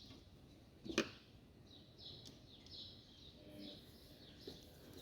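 Quiet handling of a washing machine's stator and plastic Hall sensor part during fitting: one sharp click about a second in, with faint short high chirps later.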